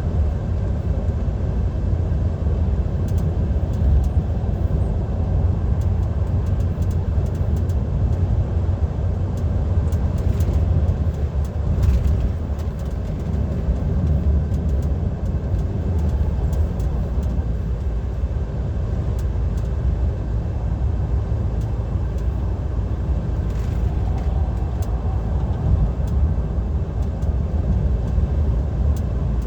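Steady low drone of a DAF XF 530 lorry cruising at motorway speed, heard inside the cab: engine and tyre noise.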